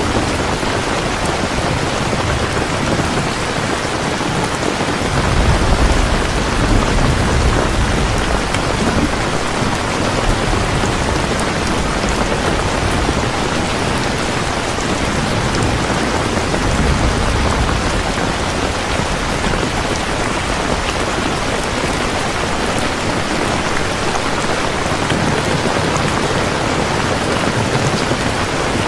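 Heavy rain falling steadily, with low rolling thunder swelling up about five seconds in and again a little past the middle.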